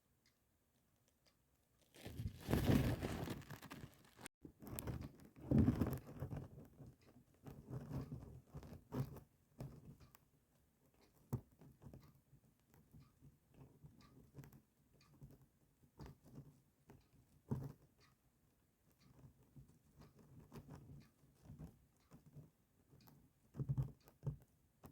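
Thunder breaking suddenly about two seconds in, then rumbling and crackling in irregular, gradually weaker rolls.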